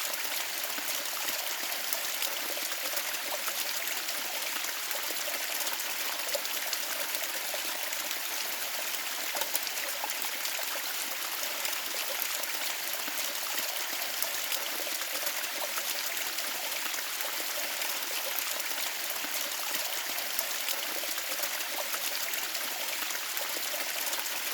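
Steady rush of a forest stream, an even hiss of running water flecked with small splashes.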